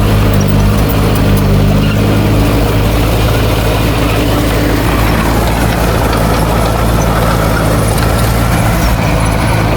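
Heavy diesel engine of earthmoving machinery running steadily, its low note unbroken.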